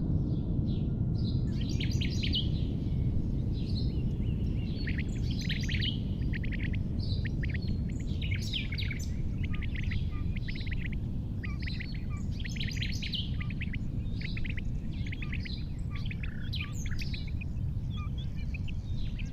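Small birds chirping and twittering in quick, repeated phrases over a steady low rumble.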